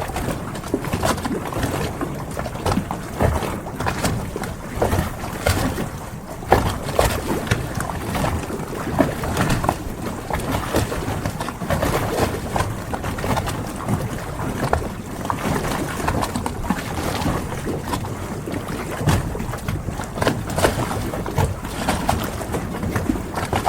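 Harbor ambience: water lapping and sloshing against moored boats, with many small irregular knocks and splashes, and wind.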